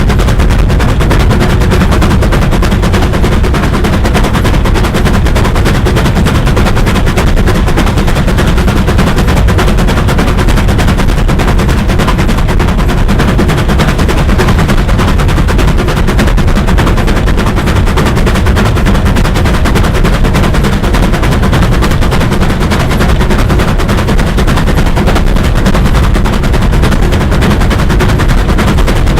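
Steam locomotive working hard: a loud, steady stream of rapid exhaust beats that does not let up.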